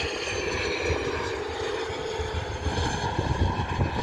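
Embraer E190 airliner's twin CF34 turbofan jet engines during takeoff: a steady rushing noise carrying high whining tones that slowly fall in pitch.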